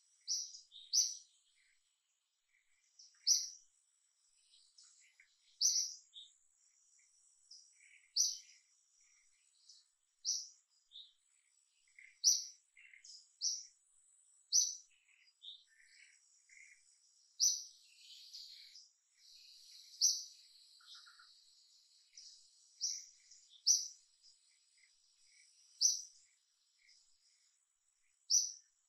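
Birds calling in the forest canopy: a high, sharp chirp repeated every second or two, with softer, lower chirps scattered between.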